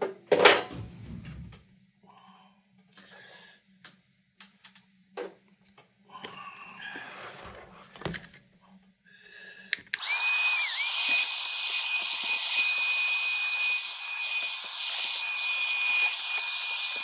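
Small electric vacuum cleaner switched on about ten seconds in, running with a steady high whine that dips briefly in pitch just after it starts, vacuuming dust out of a computer power supply. Before it come scattered light knocks and clatter of the parts being handled.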